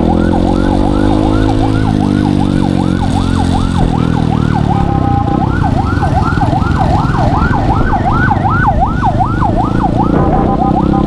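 Siren yelping, its pitch sweeping rapidly up and down about three times a second, twice broken by a short steady tone, over a motor vehicle engine running underneath.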